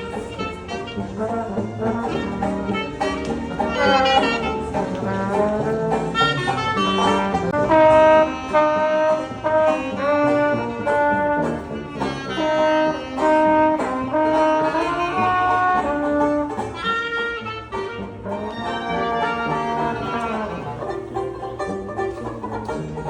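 A band playing lively jazz, with brass horns carrying the melody in held and sliding notes over a banjo.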